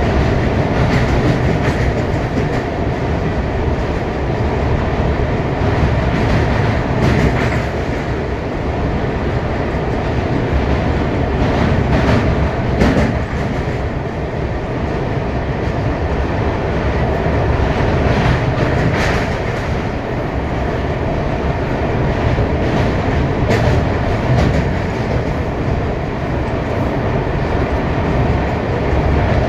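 Amrit Bharat Express train running: a steady rumble of wheels on the rails, with a few sharp knocks at rail joints.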